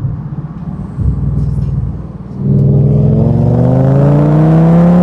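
Audi V10 engine through a Milltek aftermarket exhaust, running low at first. About two and a half seconds in it pulls hard under acceleration, the exhaust note getting louder and rising steadily in pitch as the revs climb through the gear.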